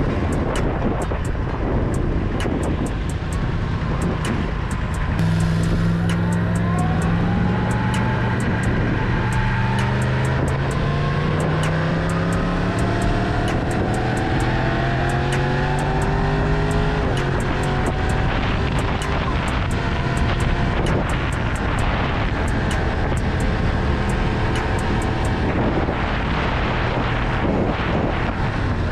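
Yamaha MT-10's crossplane inline-four engine under way, pulling up in pitch steadily for about twelve seconds from a few seconds in, then running on more evenly.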